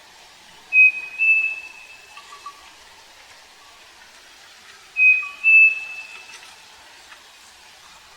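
Striped cuckoo (saci) singing, twice, about four seconds apart. Each song is a pair of clear whistled notes, the second a little higher and longer than the first.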